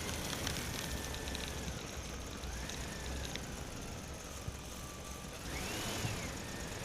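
A small electric motor whining faintly, its pitch wandering and briefly rising and falling about six seconds in, over a low hum.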